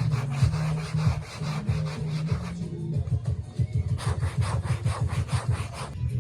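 Quick back-and-forth scrubbing or rubbing strokes, about five a second, pausing for about a second near the middle, over background music.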